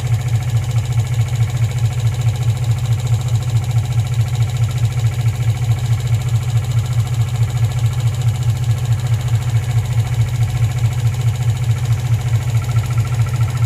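2003 Infiniti G35's 3.5-litre V6 idling low, at about 550 rpm, with a steady, regular pulsing. The engine has a misfire at idle.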